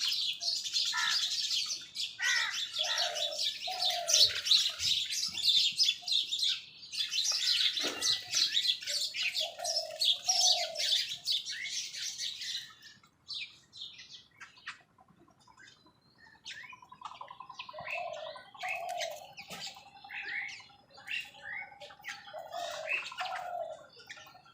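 A crowd of birds chirping rapidly over one another, the chatter thinning out about halfway through, with short lower call notes repeated every few seconds.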